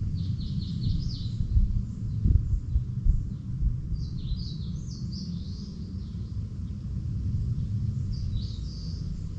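A small songbird sings short runs of quick, high chirps three times: near the start, around the middle and near the end. Under the chirps is a steady low rumble of wind on the microphone.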